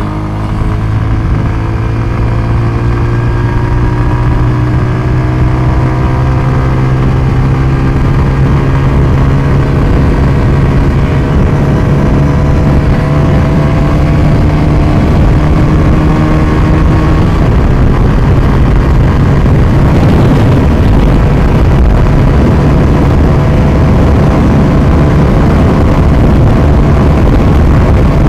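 Motorcycle engine pulling, its note rising slowly over the first seventeen seconds or so as the bike gains speed. After that, wind and road rumble take over at a steady cruise.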